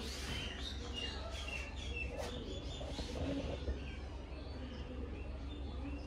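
Faint bird chirps, short high notes mostly in the first couple of seconds, over a steady low hum.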